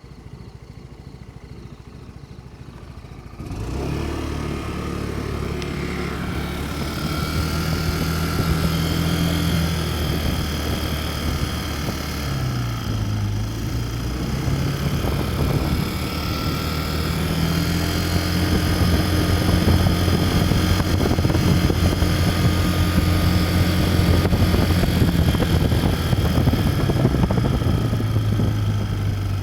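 Yamaha Cygnus-X (4th generation) 125 cc single-cylinder scooter engine running, its sound jumping up about three and a half seconds in. Steady high whining tones ride over the engine note, the abnormal engine noise the owner is showing. The engine speed dips briefly and comes back near the middle.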